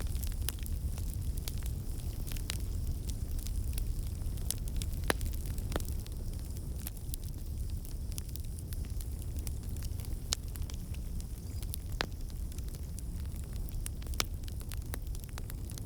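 Wood fire burning in a fireplace: a steady low rumble of flames with irregular sharp crackles and pops, a few standing out louder.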